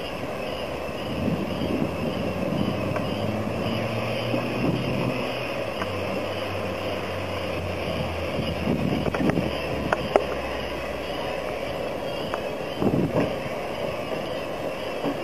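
Mechanical brush washer for passenger coaches running: rotating brushes and water sprays make a steady wash noise, under the low steady hum of the diesel locomotive pushing the coaches through, which fades out about eleven seconds in. A few short knocks come near the ten- and thirteen-second marks.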